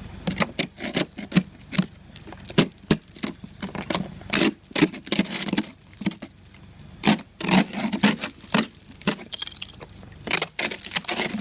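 Ice crackling and clinking in sharp, irregular snaps, several a second.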